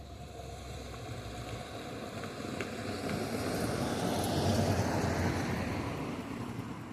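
A car driving past; its road noise builds to a peak about four to five seconds in, then fades.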